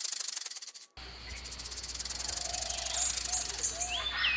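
Rattlesnake shaking its tail rattle, a fast, even buzzing rattle. It breaks off abruptly about a second in and starts again, with a few short chirps near the end.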